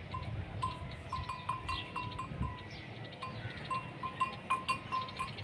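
Neck bells on a herd of cows clanking irregularly, a few strikes a second, as the animals move.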